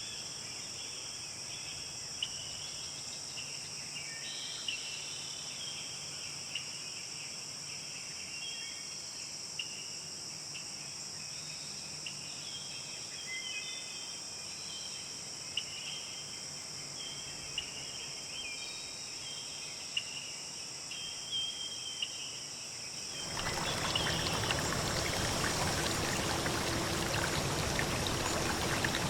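Insects buzzing steadily at a high pitch, with short chirping calls scattered over them. About 23 seconds in, this changes abruptly to a louder, steady rush of water, like a stream or rain.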